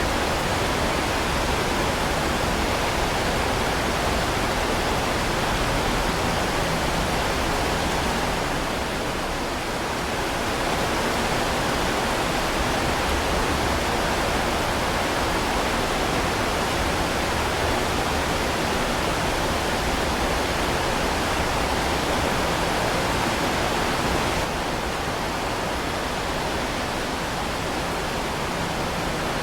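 Heavy rain falling steadily, an even dense hiss with no single drops standing out. It dips briefly about eight seconds in and drops a little quieter about five seconds before the end.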